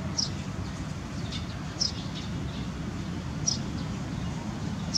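A bird chirping repeatedly, one short high call that drops in pitch roughly every second and a half, over a steady low background rumble.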